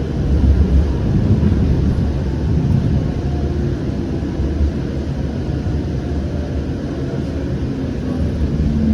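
Siemens S700 light rail car running between stops, heard from inside the car: a steady low rumble of wheels on rail and running gear.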